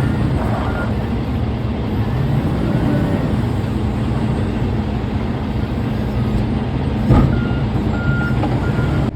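Heavy diesel machinery running steadily, with a reversing alarm beeping at the start and again near the end. There is one sharp clunk about seven seconds in.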